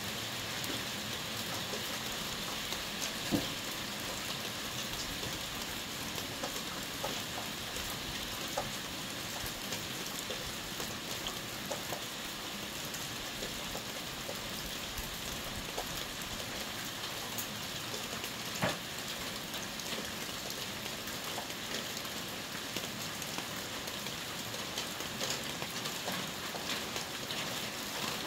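Rain falling steadily, an even hiss with scattered sharp drop hits, two of them louder, about three seconds in and about two-thirds of the way through.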